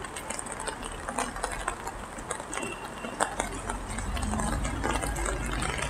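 Rain pattering on an umbrella overhead: an even hiss with scattered sharp drop ticks, and a low rumble that comes up in the second half.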